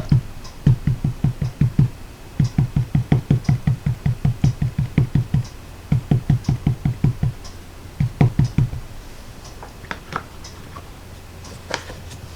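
A stamp being tapped quickly and repeatedly onto a Memento Tuxedo Black ink pad to ink it, about six light taps a second in several runs, stopping about nine seconds in. A couple of faint clicks follow near the end.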